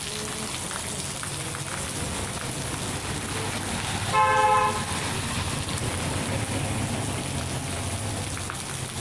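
Heavy rain falling steadily on a street, with a vehicle driving past on the wet road. About four seconds in, a car horn gives one short toot.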